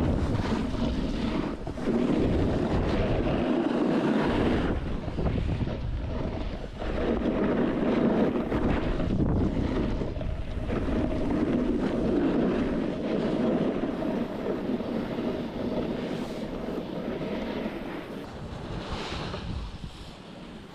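Wind buffeting the microphone of a snowboarder's action camera, mixed with the snowboard's edges scraping over snow, swelling and easing with each turn.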